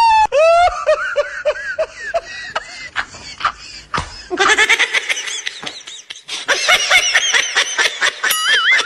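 Bursts of laughter in quick pulses, thicker and higher-pitched in the second half as more voices overlap.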